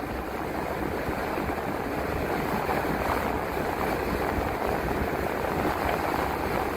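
Transit bus running down the road, heard from inside the cabin: a steady engine rumble and tyre and road hiss.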